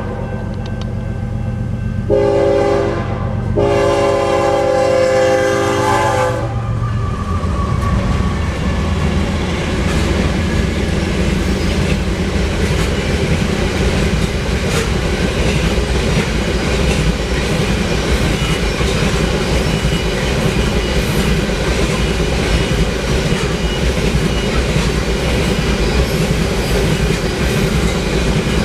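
A diesel locomotive's air horn sounds a short blast and then a long one over the rumble of the lead units. As the horn stops, the locomotives give way to heavy loaded ore cars rolling past, with steady wheel clatter over the rail joints.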